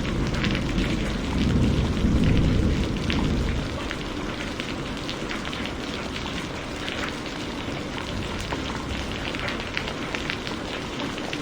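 Heavy rain falling steadily, a dense hiss with fine spatters of drops. A low thunder rumble underneath dies away about four seconds in.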